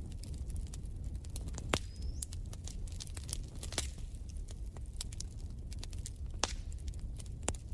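Wood fire in a fireplace crackling: dense, irregular small snaps with four louder pops, over a steady low rumble. A brief faint rising whistle comes about two seconds in.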